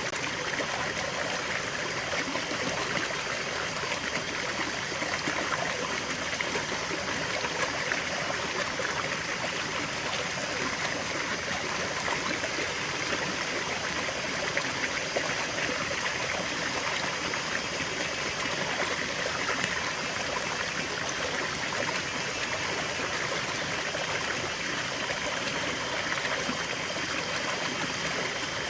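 Small stream running steadily over stones, a continuous trickling and babbling of shallow water.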